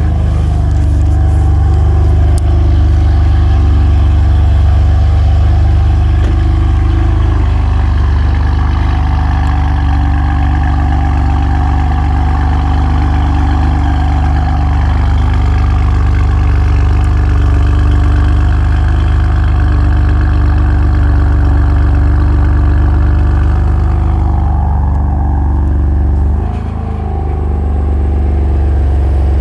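BMW M4's twin-turbo inline-six running steadily through an AWE SwitchPath exhaust with the valves closed, the car under way. There is a brief dip in the engine note near the end.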